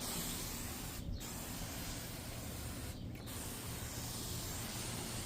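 Pump-up sprayer misting pre-spray cleaning solution onto upholstery in a steady hiss, broken by two short gaps, about a second in and about three seconds in.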